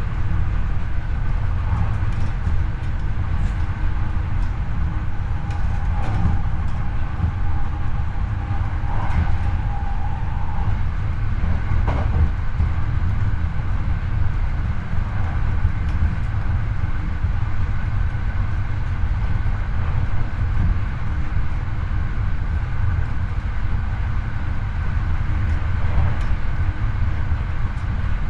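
Hankyu 8300-series electric train running at speed, heard from the car floor above the bogie: a steady low rumble of wheels on rail with faint steady tones and a few sharp clicks.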